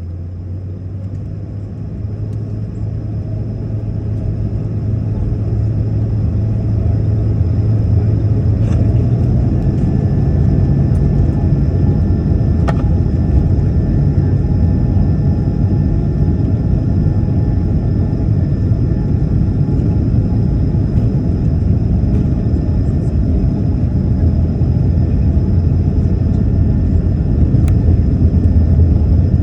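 Airbus A220-300's twin Pratt & Whitney geared turbofans at takeoff power, a deep rumble that builds over the first several seconds and then holds steady.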